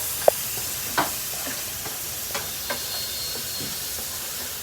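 Onion and spices sizzling in hot oil in a frying pan, with a spatula stirring, scraping and clicking against the pan; a sharp tap about a third of a second in and another at about a second.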